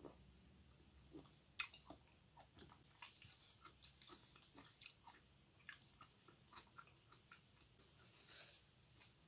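Faint, close-miked chewing of raw pork liver: many soft, wet mouth clicks and smacks, with one sharper click about a second and a half in.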